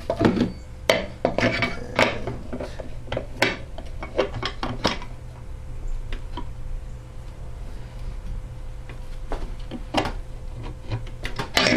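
Metal engine parts and tools clinking and knocking irregularly as the piston, rings fitted, is worked into the cylinder of a 3.5 HP Tecumseh lawnmower engine. The knocks come thick in the first few seconds, then only a few more later, over a faint steady hum.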